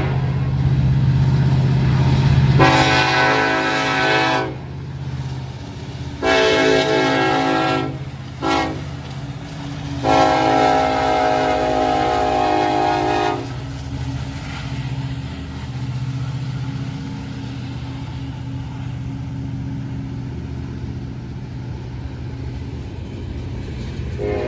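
Norfolk Southern freight locomotive's air horn sounding the grade-crossing signal: two long blasts, a short one, then a final long blast ending about 13 seconds in. Under and after it, the locomotives' diesel engines run and the freight train rumbles past.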